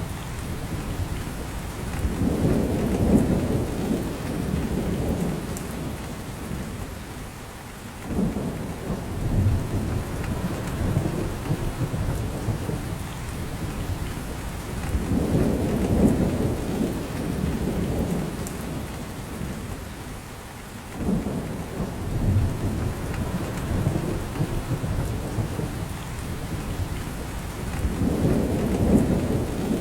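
Rain falling in a spruce forest, with drops coming off the branches, over a low rumble that swells and fades every several seconds.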